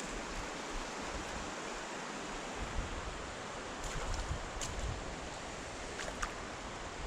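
Steady rush of flowing stream water, with a few faint ticks over the second half.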